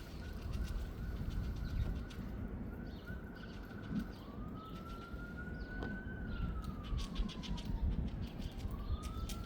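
An emergency-vehicle siren wails, holding one pitch for about four seconds, then slowly rising and falling, and starting to rise again near the end. Under it is a steady low rumble of wind.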